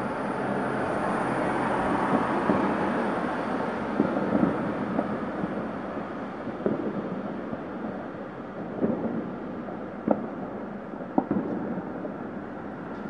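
Fireworks and firecrackers going off: a continuous rumble of many bangs blended together, with single sharper cracks standing out every second or two.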